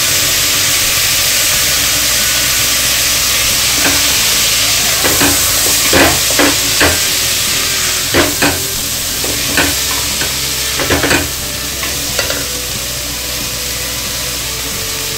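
Onions and kidney beans frying in an aluminium pressure cooker with a steady sizzle. A wooden spatula stirs them, knocking and scraping against the cooker's sides in a run of sharp clacks from about four seconds in until about twelve seconds.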